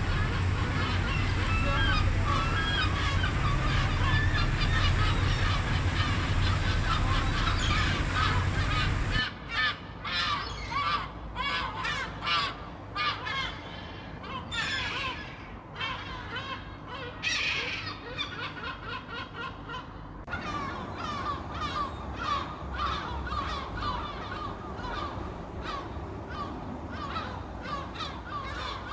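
A flock of seagulls calling, many short calls overlapping one another. For about the first nine seconds a steady low rumble runs under them and then cuts off abruptly.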